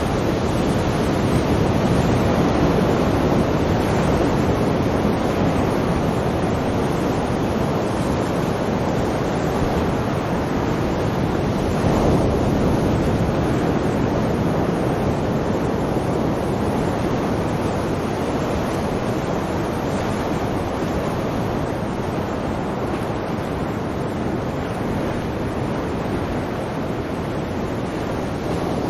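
Sea waves washing on the shore as a continuous rushing surf, swelling a little about two seconds in and again about twelve seconds in.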